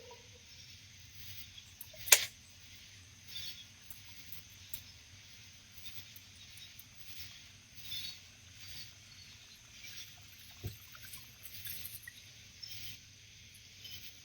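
Quiet outdoor ambience with a faint steady high hiss, broken by one sharp knock about two seconds in and a few softer taps and ticks, with a dull thump near the end.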